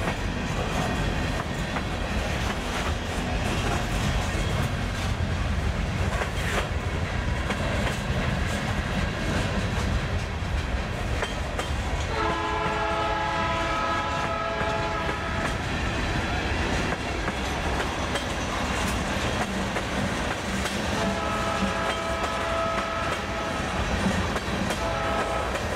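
Freight train rolling past with a steady rumble. The locomotive's multi-note air horn sounds a long blast about halfway through, then two more blasts near the end.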